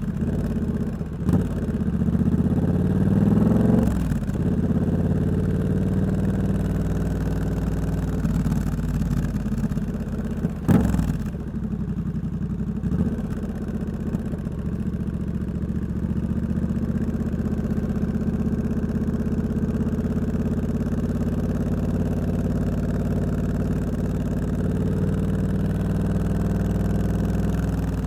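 Triumph Scrambler 1200 X's 1200 cc parallel-twin engine running through a loud aftermarket Hitchcox exhaust while riding: the revs rise for a couple of seconds near the start, then it settles into steady low-rev running. Two sharp knocks come through, about a second in and about eleven seconds in.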